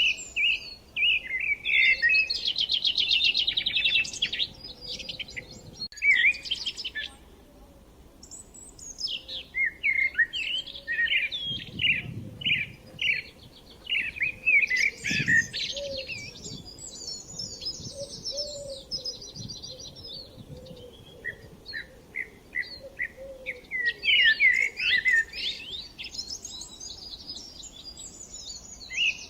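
Several songbirds singing in overlapping bursts of chirps, whistled phrases and rapid trills, with a short lull about seven seconds in.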